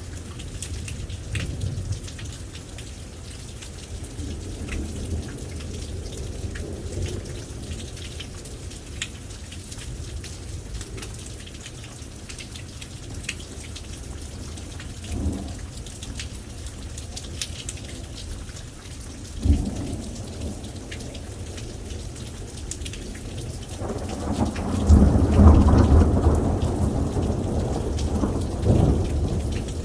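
Thunderstorm: steady rain pattering, with low thunder rumbling. A sharp thunderclap comes about two-thirds of the way in, and near the end a long, loud roll of thunder follows.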